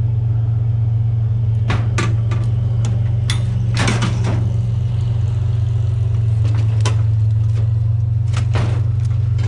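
A vehicle engine idles steadily under a run of irregular metal clanks and knocks as a rusty metal folding chair is forced flat by hand.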